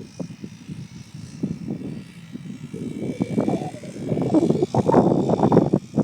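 Dirt bike engine running, getting louder through the second half.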